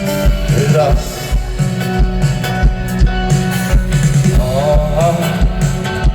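Live rock band playing through a festival sound system: a steady kick-drum beat under guitars and sustained chords, with a singer's voice coming in briefly about a second in and again near the end.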